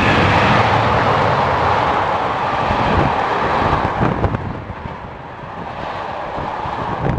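A train passing close by at speed: a loud rushing noise that eases off about four seconds in, with a few knocks from the wheels toward the end.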